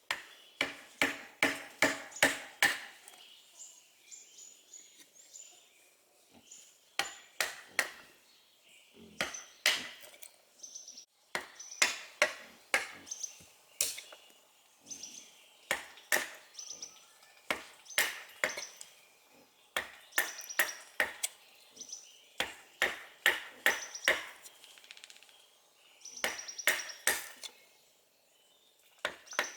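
A tool striking wood in bursts of several quick blows with short pauses between them; many blows carry a high metallic ring.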